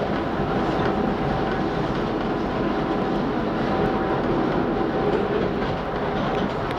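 CTA Brown Line elevated train car in motion, heard from inside the car: a steady rumble of wheels on the rails with faint, intermittent tones.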